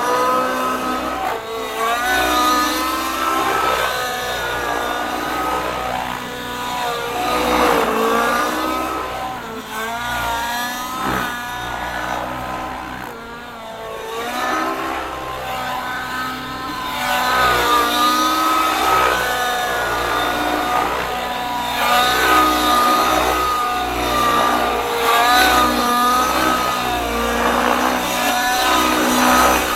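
Nitro engine of a Gaui NX7 RC helicopter in flight, its whine repeatedly sweeping up and down in pitch as the helicopter manoeuvres, growing fainter around the middle and louder again toward the end.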